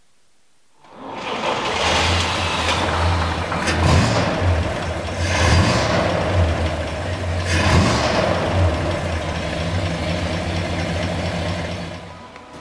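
1948 GMC truck engine running, starting abruptly about a second in, with a steady low beat and several brief swells in level, easing off near the end.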